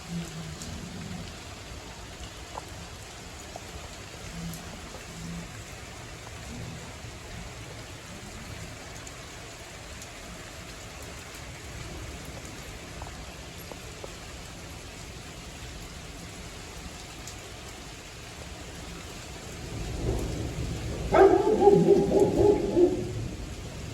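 Steady rain falling on surfaces. Near the end a low rumble swells and gives way to a loud, choppy sound lasting about two seconds.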